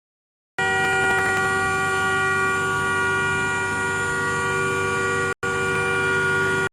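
A vehicle horn sounding continuously at one steady pitch, cut off abruptly for a moment a few times.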